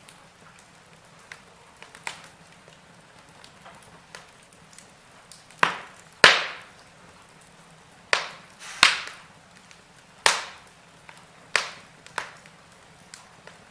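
Wood fire crackling, with sharp pops at irregular intervals, the loudest about six seconds in, over a faint steady background.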